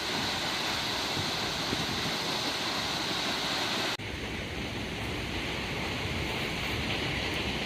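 Steady rushing of the Düden Waterfall pouring over the cliff. About four seconds in it breaks off for an instant and resumes with a slightly different tone.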